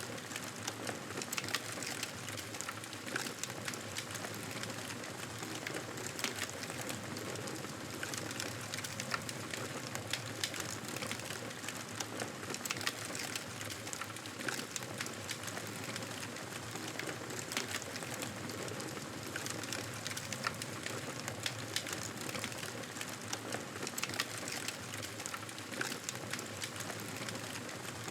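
Wood fire crackling in a fireplace: a steady hiss with many small sharp crackles and pops scattered throughout.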